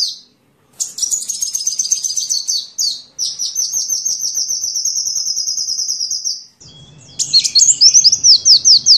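Sunbird song: fast, high twittering trills, with a long even trill until a louder run of arched, whistled notes begins about two-thirds of the way in.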